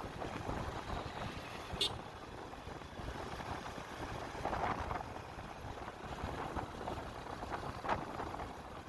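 Wind buffeting the microphone on a moving motorcycle, with road and engine noise underneath; a single sharp click about two seconds in.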